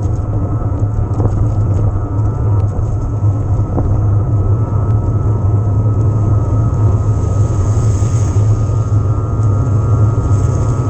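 Steady rumbling riding noise from an e-mountain bike in motion: wind buffeting the helmet- or body-mounted camera's microphone and tyres rolling over the trail, with a few light rattling clicks early on.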